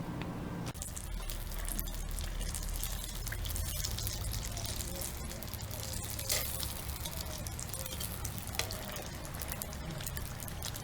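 Egg rolls frying in hot oil, a dense crackling sizzle that starts suddenly about a second in and keeps on, with a low hum underneath.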